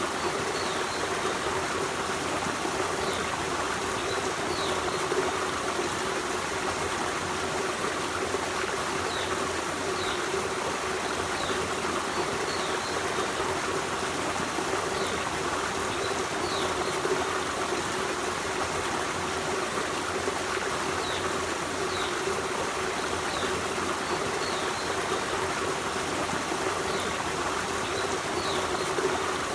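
Forest stream running steadily, a constant rush of flowing water. Faint short high chirps sound every second or two over it.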